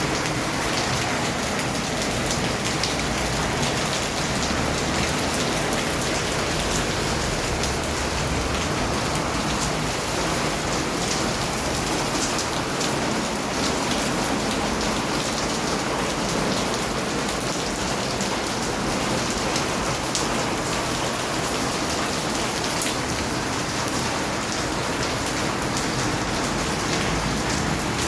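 Steady heavy rain falling, a constant hiss with many fine drop patters.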